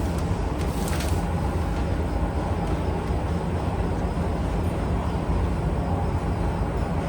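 Steady low mechanical rumble with a hiss over it, and a brief higher rasp about a second in.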